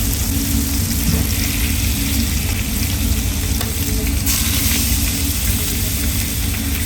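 Food frying in a pan, a steady loud sizzle with fine crackling.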